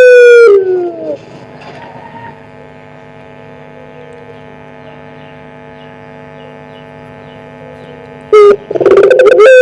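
Puter pelung (Barbary dove) cooing: a loud call that drops in pitch as it ends about a second in, then a steady hum, then a short note and another long coo near the end.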